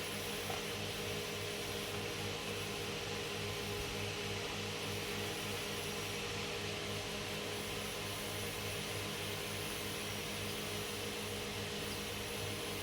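Steady mechanical hum and hiss of a fan or blower running, with a low drone that pulses slightly and does not change.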